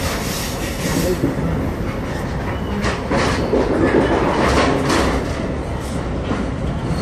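Rumble of a commuter train running, heard from inside the passenger car, with repeated sharp clacks of the wheels over the rails.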